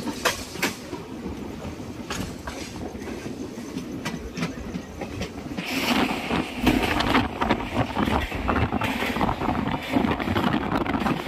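Alleppey Superfast Express passenger train running, with a steady rumble and an irregular clatter of wheel clicks over the rail joints. It grows louder about halfway through.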